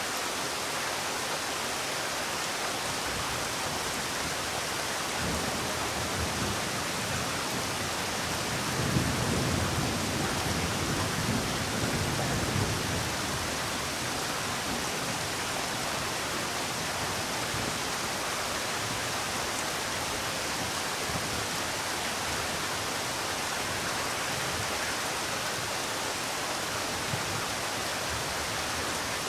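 Steady rain falling, an even hiss of drops. About a third of the way in, a low rumble swells for a few seconds and then fades back into the rain.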